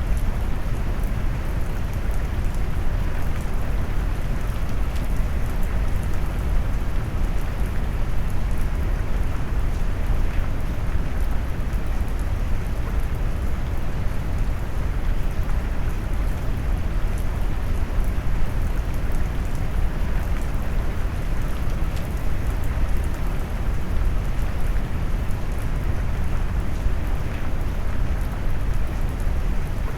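Brown noise mixed with rain: a steady, deep rushing noise weighted toward the low end, with faint raindrop patter on top.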